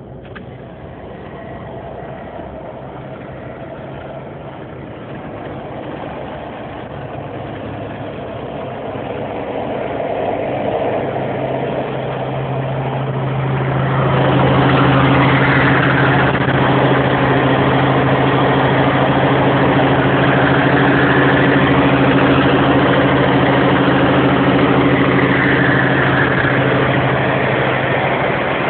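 Scania 144/530 truck's V8 diesel engine running, growing steadily louder over the first half, then holding loud with a steady low drone before easing off near the end.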